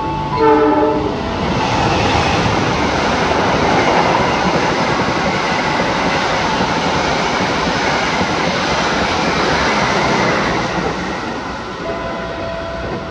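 Long-distance passenger train, hauled by a diesel locomotive, running straight through the station without stopping. A short horn sounds about half a second in. Then the coaches pass with a steady rush and clatter over the rails for about ten seconds, fading near the end.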